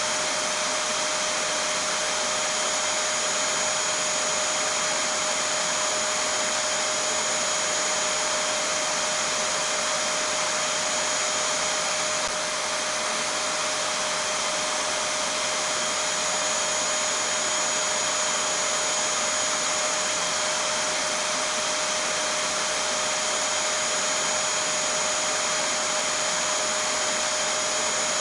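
Vacuum cleaner running steadily: an even rushing noise with a constant mid-pitched tone and a high whine, dipping slightly for a moment about twelve seconds in.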